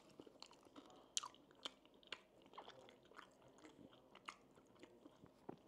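A person chewing food close to the microphone: faint, scattered wet clicks and small crunches.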